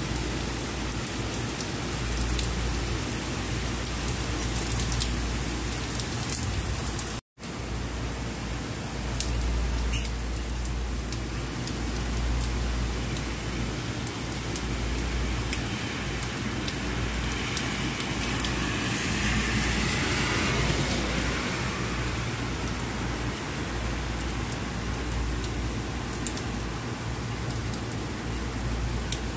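Steady heavy rain falling on a city street, with tyres hissing over the wet road as a car passes about two-thirds of the way through. The sound cuts out for a split second about seven seconds in, and there is a sharp click a few seconds later.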